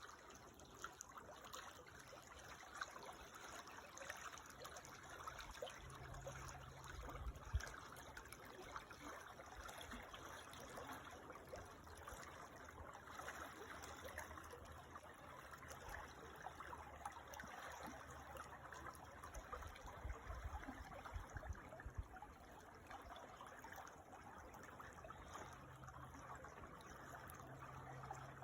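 Creek water trickling and babbling steadily, faint, with a low rumble coming and going underneath a few times.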